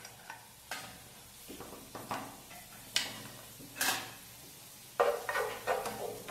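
Chopped onion, garlic and rosemary frying gently in olive oil in a nonstick pan, with scattered pops and crackles. About five seconds in, a spatula starts stirring, scraping against the pan.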